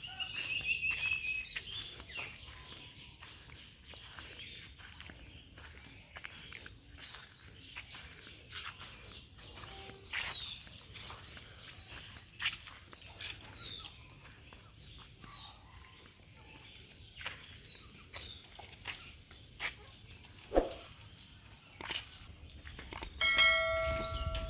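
Birds chirping: short high chirps, one or two a second, that rise and fall in pitch. About a second before the end a longer, steady call with a clear pitch begins.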